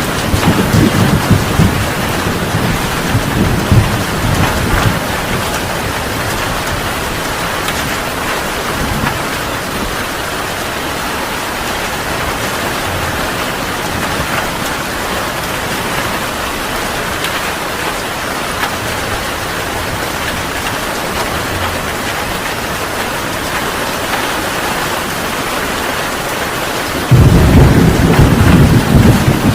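Heavy rain pouring steadily, with thunder rumbling low in the first few seconds. A loud rumble of thunder starts suddenly near the end.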